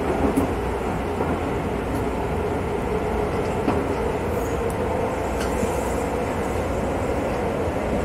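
Electric local train running along the line: a steady rumble with a faint steady tone and a few light clicks.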